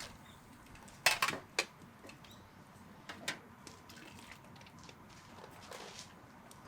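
Kitchenware being handled: a quick cluster of sharp clinks and knocks about a second in, then a few lighter clicks around three seconds.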